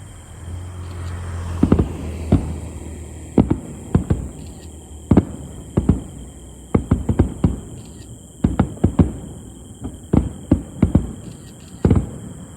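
Aerial fireworks bursting: a string of sharp bangs at irregular intervals, several coming in quick clusters of three or four.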